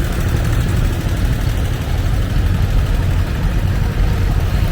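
Antique farm tractor engines running steadily as tractors drive slowly past, mostly a low rumble.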